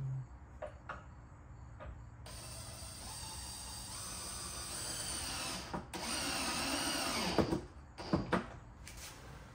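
Power drill driving a screw to fasten a subwoofer into its wooden box: the motor whines for about five seconds with a brief stop partway, its pitch sagging as the screw seats, followed by a few sharp knocks.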